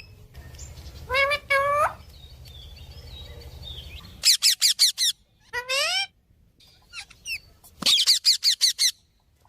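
Pet parrot calling: two short pitched calls about a second in, then a quick run of shrill falling chirps, another call, and a second rapid run of chirps near the end.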